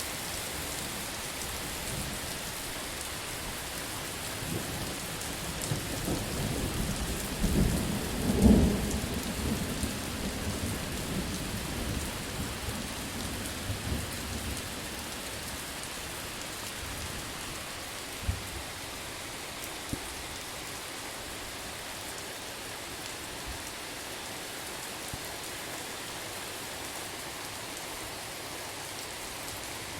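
Steady heavy rain with a roll of thunder that builds from a few seconds in, peaks in a loud crack near the middle of the first half, then rumbles away.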